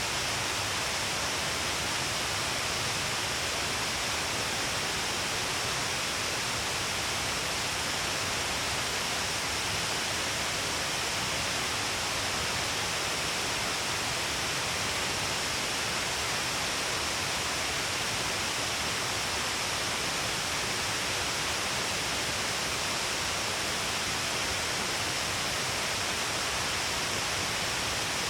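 Shiraito Falls, many streams of water pouring down a long cliff face, heard as a steady, unbroken rush of falling water.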